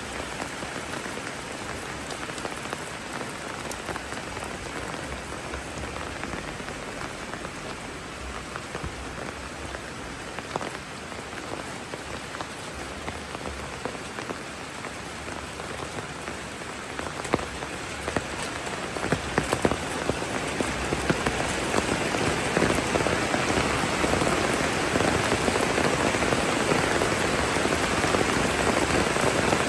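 Steady rainfall, with individual drops ticking on nearby surfaces. It grows noticeably louder about two-thirds of the way through.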